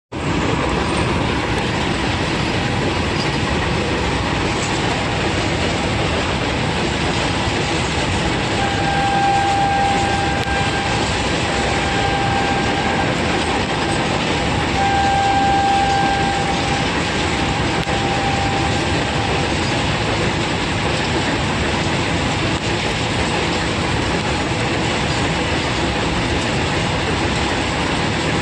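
A long goods train of covered wagons rolls steadily across a girder bridge, a continuous wheel-on-rail noise with no let-up. In the middle a steady high tone sounds four times, each for a second or two.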